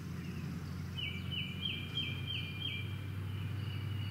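A songbird singing a quick run of about six repeated two-part notes, each stepping down in pitch, starting about a second in, over a low steady background rumble.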